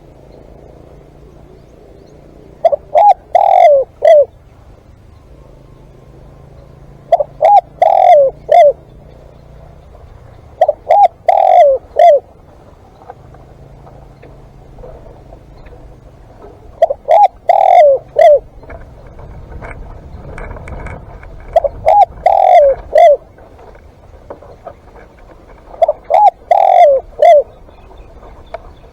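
Spotted dove cooing loudly and close: six phrases of several quick coos each, repeated about every four to five seconds.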